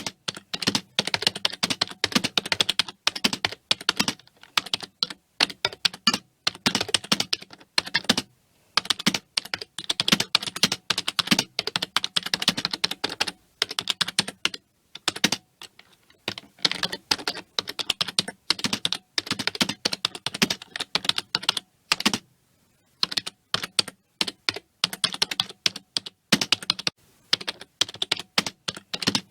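Computer keyboard typing: fast runs of key clicks broken by brief pauses.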